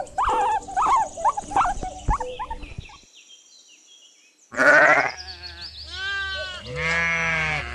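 Guinea pig squeaking in quick, short, pitched chirps for about three seconds. After a brief silence, a sheep bleats loudly several times in drawn-out, wavering calls.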